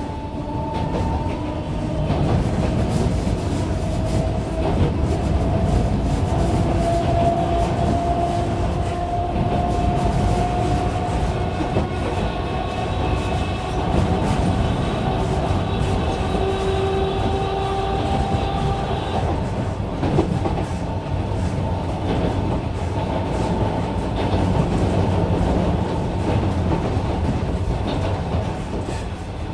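Train ride heard from inside a passenger carriage: a steady rumble and rattle of wheels on the rails, with a faint whine that rises slowly and stops about two-thirds of the way through.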